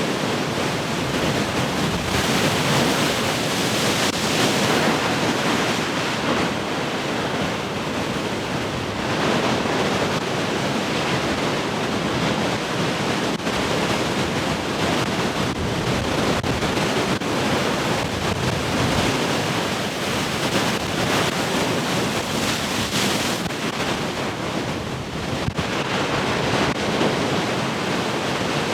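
Heavy ocean surf crashing and washing in a continuous roar, swelling as waves break about two to five seconds in and again past twenty seconds, with wind noise on the microphone.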